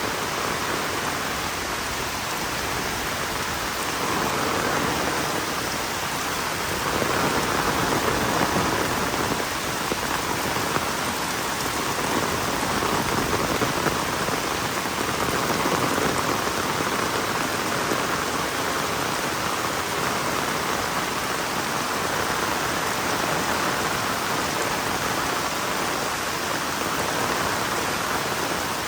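Heavy rain falling steadily, a dense even hiss of drops on surfaces that swells a little now and then.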